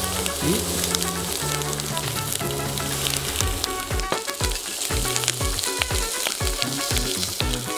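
Raw prawns searing in a little oil on a very hot pan: a steady sizzle full of crackling and spitting. Background music underneath, with a low bass line and a steady beat coming in about halfway.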